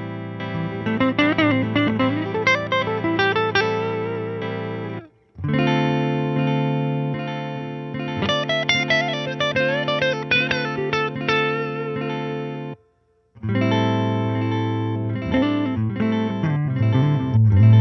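PRS 513 electric guitar through a Fender Princeton Reverb amp and a Boss DD-3 digital delay in hold mode. A recorded chord repeats as a steady sustained bed while single-note lines are played over it. The sound cuts off briefly about five seconds in and again about thirteen seconds in, then starts again.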